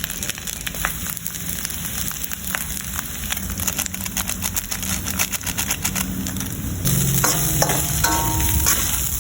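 Fried rice sizzling in a frying pan while being stirred and tossed, with a steady hiss and many quick clicks and scrapes of the spatula against the pan. It gets louder about seven seconds in, with some short ringing scrapes.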